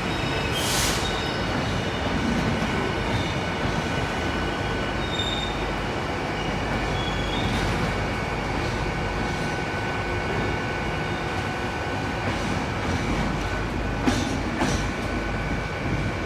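Freight train wagons hauled by a GBRF class 66 rolling slowly through the station, with a steady rumble and thin high wheel squeal throughout. A few short clicks come about a second in and again near the end.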